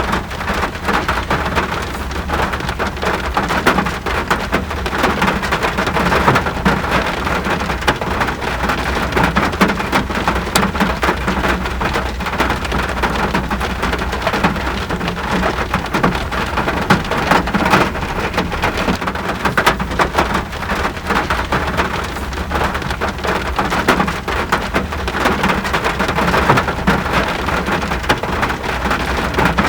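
Steady rain falling, a dense even wash of noise with countless separate drop ticks through it. A constant low rumble runs underneath.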